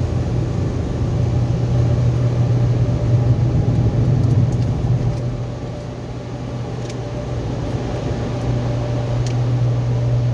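Steady low hum over an even rushing noise at an automatic car wash, easing off a little about halfway through.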